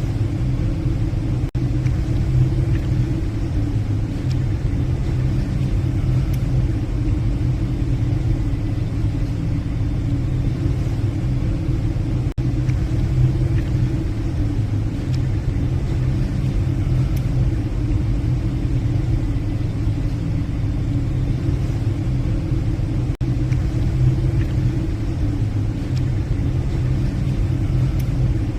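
Steady low drone of a passenger ferry's engines and machinery, heard from the bridge while the ship is under way.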